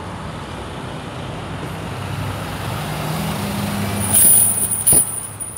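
Freight train rolling away along the track: a steady low rumble of its wheels and cars. About four seconds in comes a brief high-pitched squeal, and a sharp click follows just before the end.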